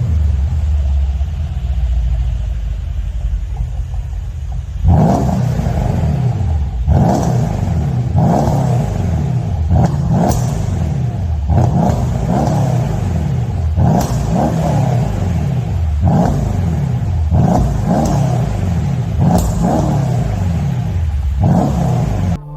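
Mercedes-Benz S63 AMG V8 through a custom rear-section exhaust: a deep, steady idle rumble, then revved in a series of quick throttle blips, roughly one a second, each rising and falling in pitch, until it cuts off suddenly at the end.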